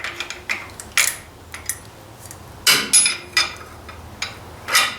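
Irregular metal-on-metal knocks and clinks, about ten sharp strikes with short ringing, from hand tools working a part loose on a tractor. The strongest strikes come a little before the middle and near the end.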